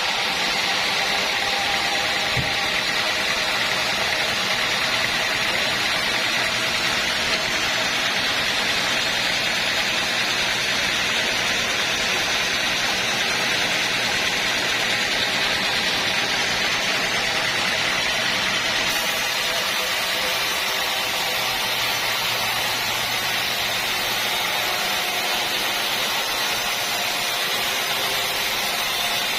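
Steady machinery noise: a constant, even, hiss-like din that does not change.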